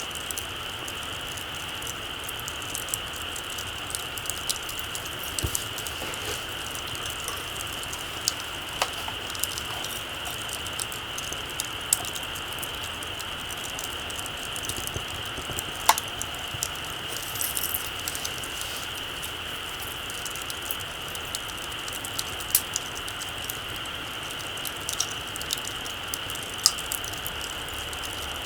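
Small campfire crackling, with irregular sharp pops from the burning wood and embers, the loudest about halfway through, over a steady high-pitched drone.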